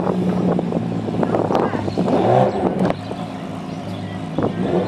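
Sports car engine running steadily at low revs, a low even drone.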